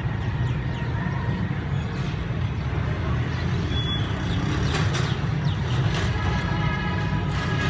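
Train running past with a steady low rumble; a few thin high tones join in about six seconds in.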